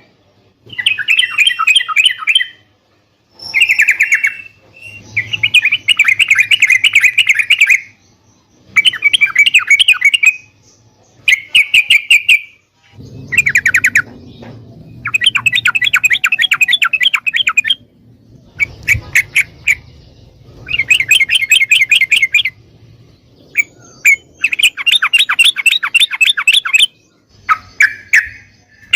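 Yellow-vented bulbul (trucukan) singing: repeated bursts of rapid, chattering song phrases, each one to three seconds long, with short pauses between them.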